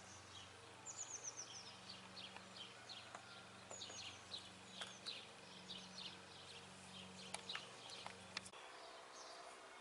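Faint birdsong: many short, falling chirps repeating throughout, over a low steady hum that stops near the end, with a few small clicks.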